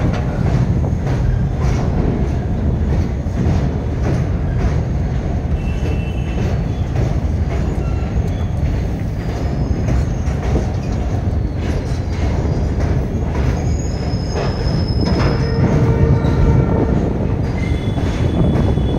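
Empty open-top coal wagons of a freight train rolling past below, a steady rumble of steel wheels on the rails. Brief thin wheel squeals come in a few times, mostly in the second half.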